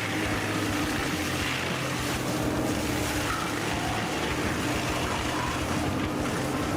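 Heavy machine's engine running steadily, a constant low hum with a mechanical rush over it.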